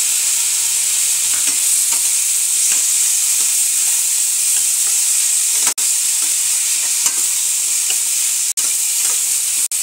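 Freshly added chopped tomatoes sizzling loudly in hot oil in a steel kadhai, stirred with a steel spatula that scrapes and ticks against the pan. The sizzle cuts out for an instant a few times in the second half.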